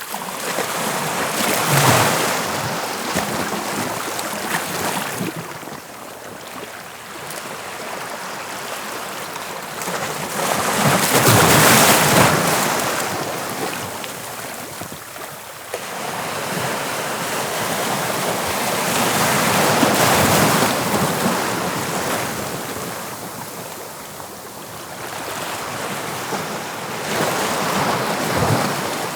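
Sea waves breaking on a beach: the surf swells and fades in about four surges, the loudest about twelve seconds in.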